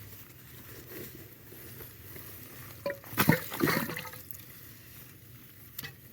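Water splashing and sloshing in a few quick surges a little past the middle, over a faint steady hiss of water.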